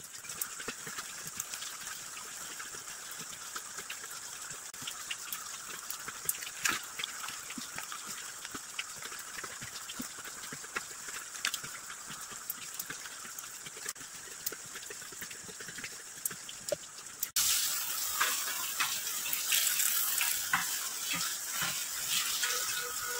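Steady hiss of falling rain with scattered drips and small clicks. About 17 seconds in, the hiss abruptly becomes louder and brighter.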